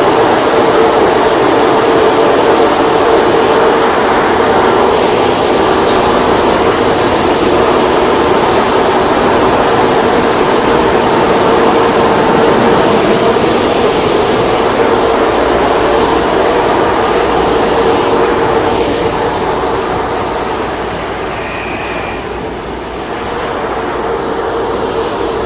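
McNeil automatic car wash equipment running: a loud, steady rushing noise with a constant hum under it, easing off a few seconds before the end.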